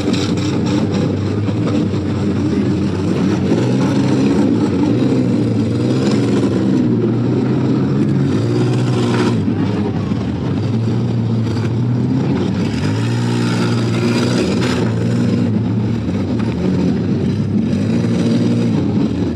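Full-size V8 demolition derby cars' engines revving and running, their pitch rising and falling as the cars accelerate and back off, with a couple of short sharp knocks, about nine seconds in and again near fifteen seconds.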